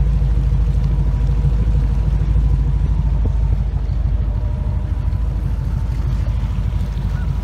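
Inboard Ford 351 Windsor V8 of a 1989 Supra Comp ski boat running steadily: a loud, even low drone.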